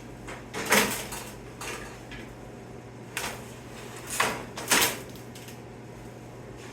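Sheet metal being handled and set in place, giving about five short metallic clanks and rattles, the loudest about a second in and two more close together just after four seconds in.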